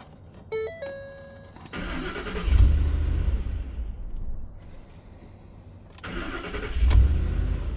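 2010 Ford F-150's 5.4-litre V8 cranking and catching, then dying about a second and a half later; a few seconds on it cranks and catches again. This is the truck's start-and-stall condition: it starts right away, then stalls. A short electronic chime sounds just before the first crank.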